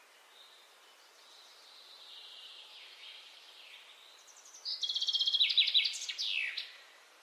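A bird singing: faint high notes at first, then past the middle a loud, rapid trill for about two seconds, ending in a few quick falling notes.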